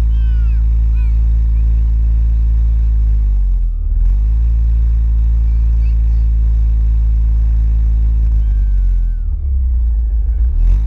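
Vehicle engine running at a steady pitch, sagging in pitch and picking back up about four seconds in, and again near the end.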